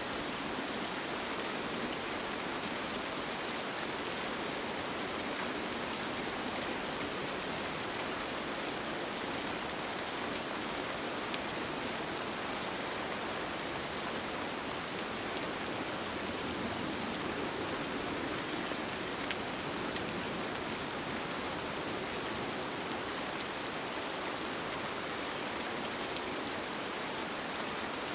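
Steady rain heard from inside a tent, an even wash of falling rain with scattered individual drops standing out.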